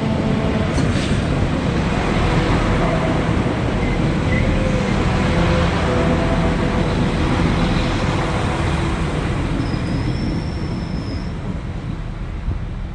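Irish Rail 22000 Class Intercity diesel multiple unit passing close along the platform: a loud, steady rumble of wheels on rail and underfloor diesel engines, easing off as the last carriages go by. A thin high squeal sounds briefly about ten seconds in.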